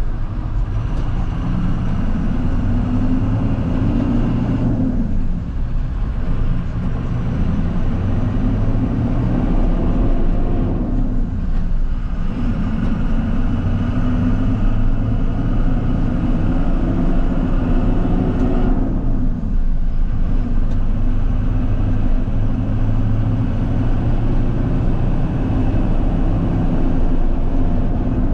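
International 4200 dump truck's VT365 V8 turbodiesel pulling the truck along on a test drive, the engine note rising and then dropping away briefly three times as the throttle is lifted for gear shifts through the newly replaced Eaton Fuller six-speed manual transmission.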